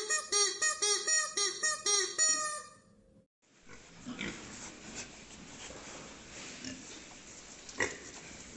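An animal giving a quick series of about eight short, high pitched calls, then, after a brief break, softer scattered grunting and rustling with one sharp click near the end.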